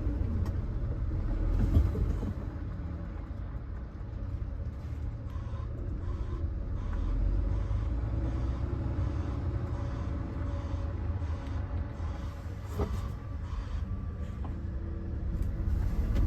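Concrete boom pump truck's diesel engine running as the truck drives away, a steady low rumble.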